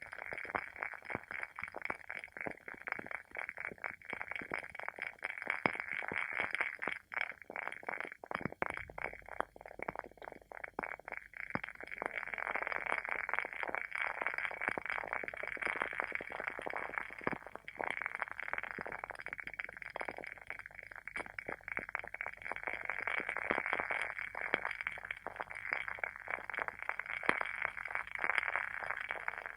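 WoodWick candle's wooden wick burning, crackling and popping in dense, irregular clicks over a steady hiss.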